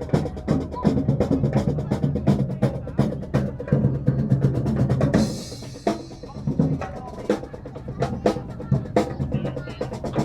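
Street drum band playing, with snare and bass drums beating a steady, fast rhythm.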